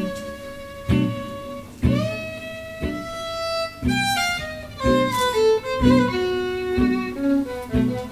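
Violin playing a held, sliding melody over acoustic guitar chords struck about once a second, in an instrumental break of a song.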